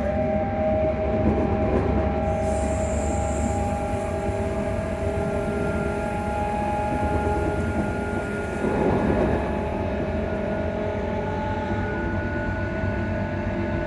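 ScotRail Class 334 electric multiple unit running at speed, heard from aboard, with a steady electrical hum of several held tones from its traction transformer over the low rumble of the running gear. About nine seconds in, a brief rushing noise swells up and fades.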